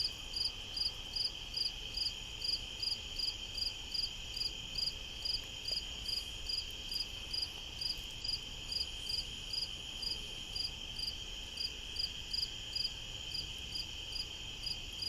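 Night insects chorusing: a steady high-pitched trill under regular short chirps at about three a second, typical of crickets.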